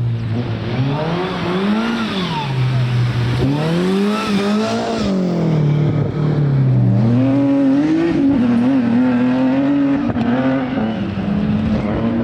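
Rally car engine at full effort on a stage: the revs rise and fall twice, then climb again about seven seconds in and stay high, wavering.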